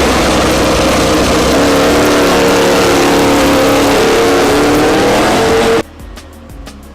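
MotoGP racing motorcycle engine running at high revs, its pitch climbing over the last few seconds. It cuts off abruptly near the end, leaving a much quieter background with a short run of quick ticks.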